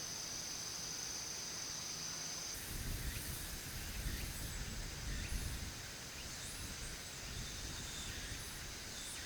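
Late-summer forest ambience: a steady high-pitched insect drone, like crickets, that stops about two and a half seconds in. It gives way to a low rumble with short, high chirps scattered through it.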